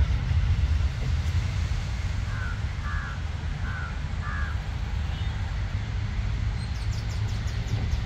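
Birds calling around a tree: four short harsh calls about two and a half seconds in, then a quick run of high chirps near the end, over a steady low rumble.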